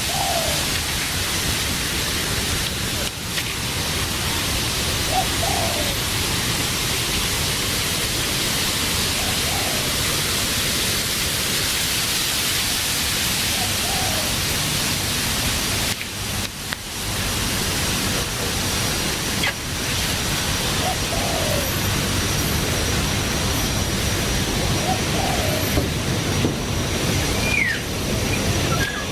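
Steady, loud rushing hiss with a brief dip about halfway through, and a few short bird calls faintly over it.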